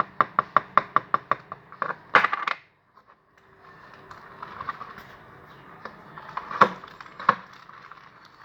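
Freshly set, stiff homemade slime being worked in the hands: a fast, even run of sharp sticky clicks, about six a second, ending in a louder squelch about two seconds in. Softer handling noise follows, with two sharp clicks near the end.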